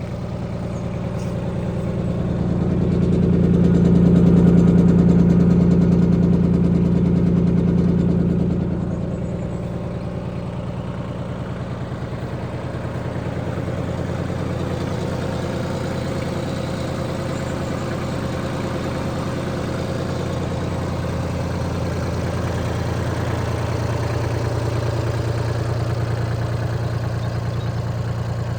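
Three-cylinder diesel engine of a Mitsubishi MT200 compact tractor running steadily. It grows louder for a few seconds about two seconds in, then settles back to an even note.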